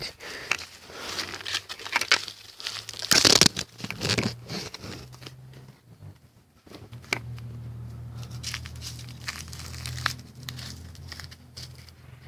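Irregular crackling, rustling and scraping noises, as of brush or handling rubbing against the microphone, with a louder scrape about three seconds in; a low steady hum comes in about halfway through.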